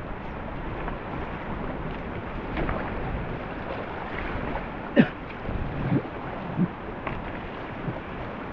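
Steady rush of river rapids around a paddled raft, with wind on the microphone. A few short, sharp knocks stand out about halfway through.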